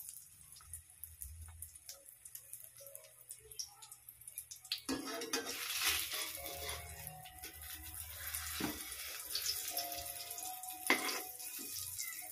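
Egg and tomato omelette sizzling in oil in a metal wok, the sizzle growing louder about five seconds in, with a few sharp knocks and scrapes of a metal spatula against the wok.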